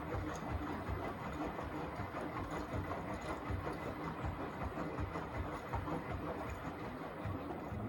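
Beko WTK104121A washing machine running its rinse cycle, the drum turning with a steady rhythm of low thuds, about two a second, over a continuous mechanical noise.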